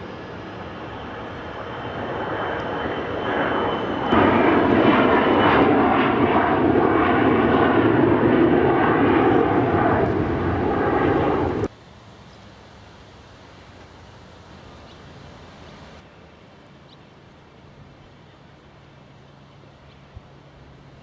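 Airliner's engines, close by: the noise builds over the first few seconds, stays loud and steady, then cuts off suddenly a little past halfway, leaving faint outdoor background.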